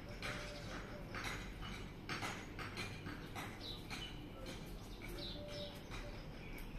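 Birds chirping outdoors: a run of short, irregular chirps and calls over a steady low background hum.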